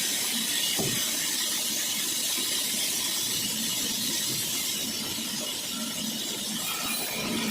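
Sawmill saw cutting through dry kikar wood, a steady hiss with no break.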